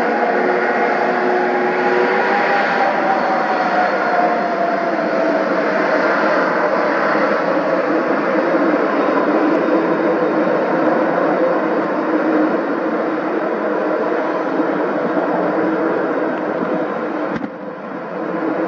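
Jet airliner engines running at close range: a steady loud rush with humming tones, one of which slowly falls in pitch over the first few seconds. The sound briefly drops away near the end.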